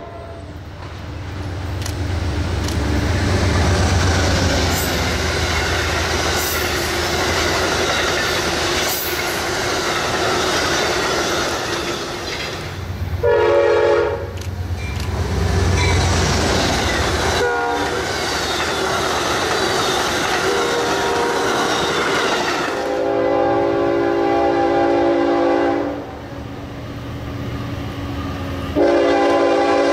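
An Amtrak passenger train passing at speed: steady wheel and rail rumble with clickety-clack, and a short horn blast about halfway through. Near the end a diesel freight locomotive sounds its multi-chime horn in a long blast, then starts another just before the end.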